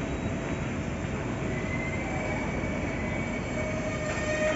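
Freight train of tank wagons rolling slowly through the station: a steady rumble of wheels on rail with high whining wheel squeal, held tones that drift slightly in pitch.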